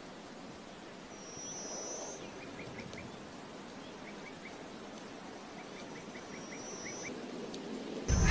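Small birds calling over quiet open-air ambience: two thin high whistles, each about a second long, and several runs of short, quick chirps.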